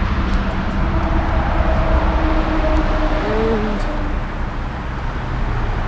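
A refrigeration condensing unit that has just switched on, running with a faint steady hum under a louder, steady rumble of street traffic.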